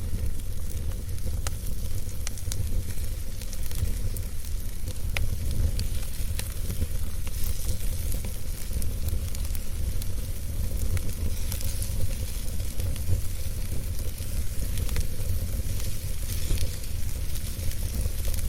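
Wood campfire burning, with scattered sharp crackles and pops over a steady low rumble and soft hiss.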